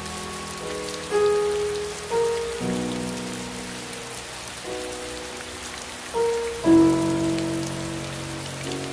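Steady rain falling, with slow, soft music over it. The notes are held and change every second or two, and a louder chord comes in about two-thirds of the way through.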